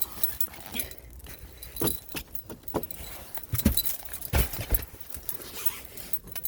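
Keys jangling with irregular crunching and clicking, and a few louder low thumps in the middle.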